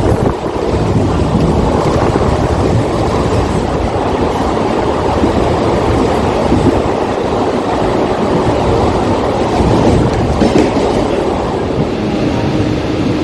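Mumbai suburban local electric train running at speed, heard from aboard: a steady rumble of wheels on the rails. A faint steady hum comes in near the end.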